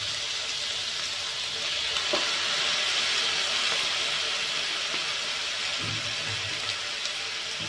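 Cubes of pork belly frying in hot fat in a wok, a steady sizzle.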